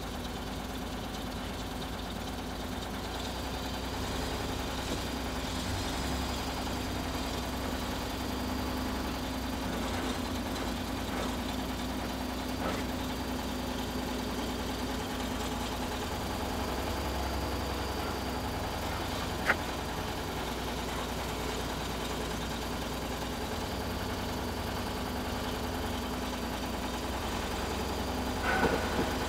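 An engine running steadily at low revs, with a single sharp click about two-thirds of the way through and a few knocks near the end.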